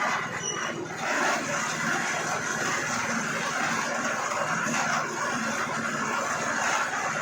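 Concrete mixer running steadily on a building site, its engine and churning drum making a continuous noise.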